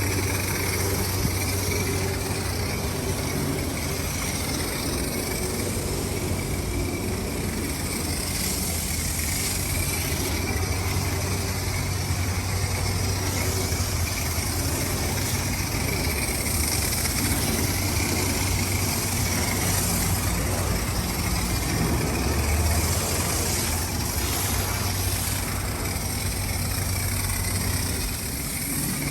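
Ford Mustang GT's V8 with a straight-piped exhaust running steadily: a constant low engine note with an even hiss over it and no revving.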